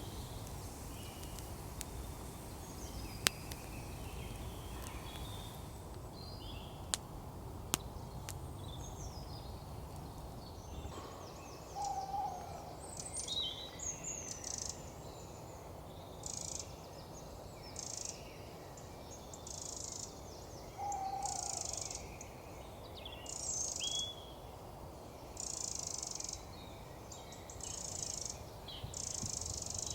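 Woodland birds calling over a low steady background. There are scattered chirps, a short lower call about every nine seconds, and, from about halfway, a repeating series of high buzzy bursts each under a second long. A few sharp ticks come in the first seconds.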